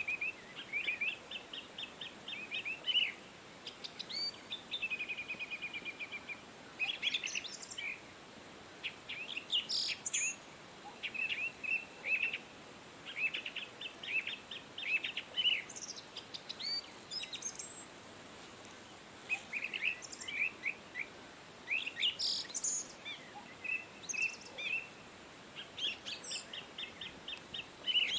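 Small birds chirping and trilling: runs of quick, sharp repeated notes in bursts with short pauses, over a faint steady hiss.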